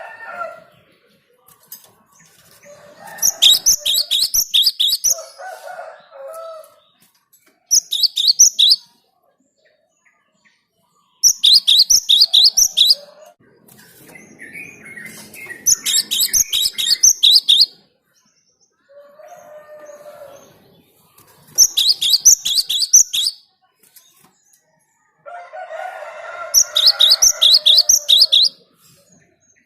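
Cinereous tit (gelatik batu) singing: about six bursts of rapid, high repeated notes, each one to two seconds long, with lower, rougher calls between the bursts. It is a lure song used to draw in wild birds.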